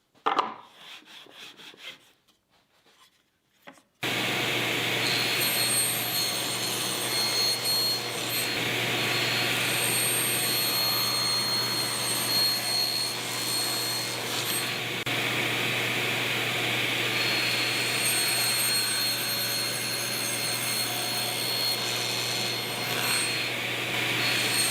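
A few light knocks and rustles of handling, then a power tool in a wood shop starts abruptly about four seconds in and runs steadily on the wood, with a constant low hum beneath it.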